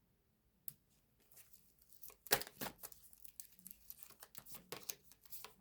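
Tarot cards being handled and shuffled: a soft click, then an irregular run of quiet flicks and rustles from about two seconds in.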